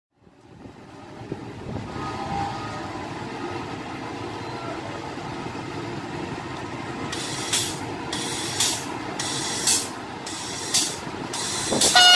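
A passing train: a steady rumble fades in, and from about halfway a regular clatter of about two beats a second joins it, typical of wheels running over rail joints. A horn starts right at the end.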